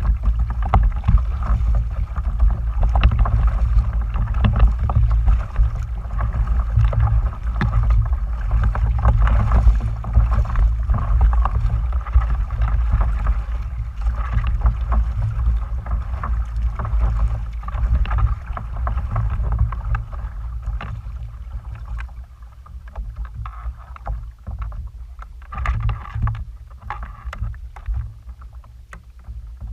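Heavy low rumble of wind buffeting the microphone over a haze of water noise, with scattered small clicks and knocks. It eases and turns patchy about two-thirds of the way through.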